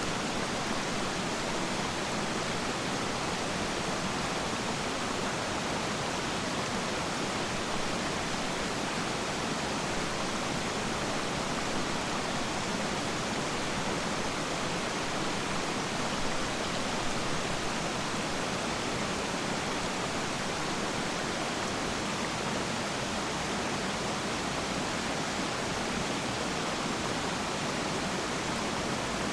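Water of Peiran Falls rushing steadily, an even, unbroken hiss of falling and running water.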